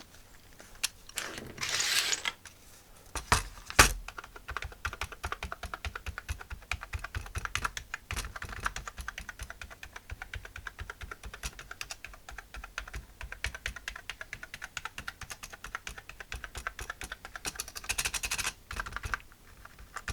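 Keys of an Atari 65XE keyboard pressed rapidly one after another, a fast, dense run of plastic key clicks, testing how the keys feel after the membrane keyboard is reassembled. Before the clicking starts, about four seconds in, there is a brief rustle and two sharp knocks.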